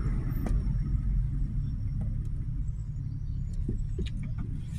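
Car driving: a steady low rumble of engine and road noise, with a few light clicks.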